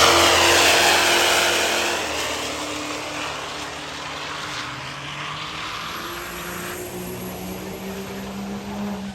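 A truck engine running loud and fading over the first few seconds, then settling into a steadier, quieter engine drone whose tone climbs slightly near the end.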